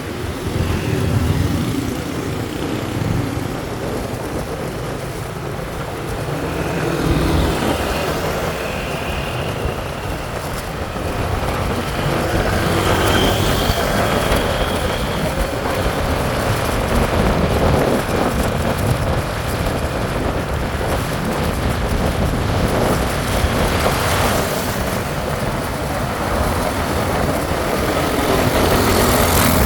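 Motorcycle running along a road, with steady engine rumble and wind and road noise.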